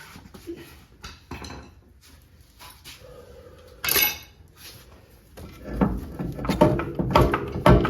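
Metal tools clanking and knocking on car parts, with one loud ringing clank about four seconds in, then a quick run of repeated metallic strikes, several a second, in the last couple of seconds.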